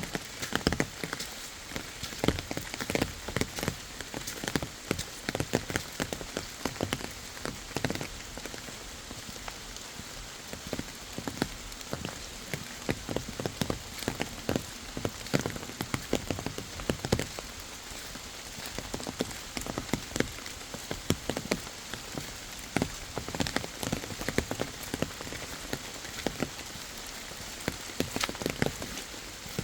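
Steady rain falling, with many loud, irregular drop impacts tapping close by over a constant hiss.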